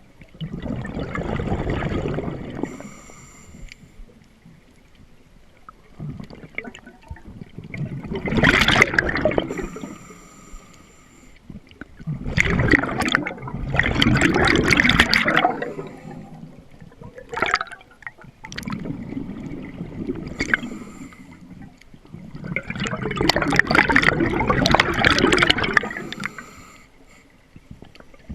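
Scuba diver breathing out through a regulator underwater: exhaled bubbles gurgle out in bursts of a second or more, about every four to six seconds, with quieter stretches between.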